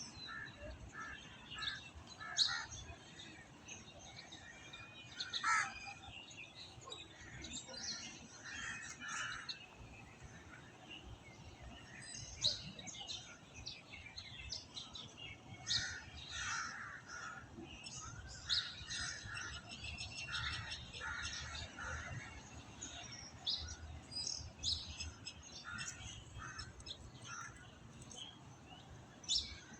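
Several birds chirping and calling, with many short, overlapping chirps.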